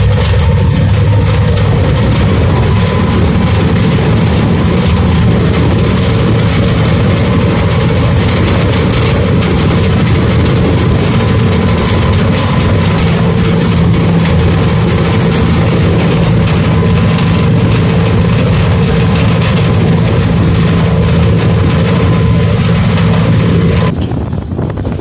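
Sand-dredging boat's engine running loud and steady under load, with a steady whine over the rumble. About a second before the end the sound drops suddenly to a quieter low rumble.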